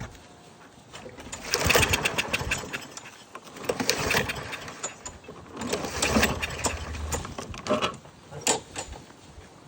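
Lawn-Boy push mower engine being pull-started three times: each pull of the recoil cord cranks it over in a quick run of strokes, but the engine does not catch. The owner suspects an air leak or a dirty carburetor. A sharp click follows the last pull.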